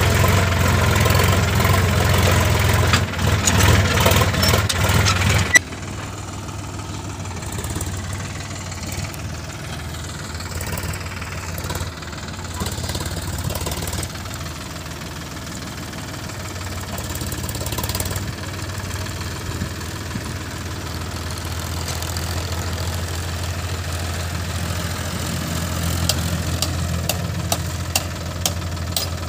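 Sonalika 50 RX tractor's diesel engine running, louder and fuller for about the first five seconds, then dropping suddenly to a quieter, steady running for the rest.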